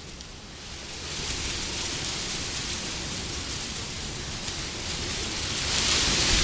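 Wind blowing in gusts, a continuous rushing noise. It dips briefly at the start, builds again, and swells to its loudest in a hissing gust near the end.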